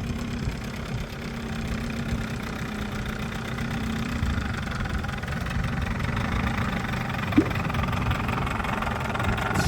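Small canal cruiser's engine idling steadily just after mooring, with one short squeak about seven seconds in.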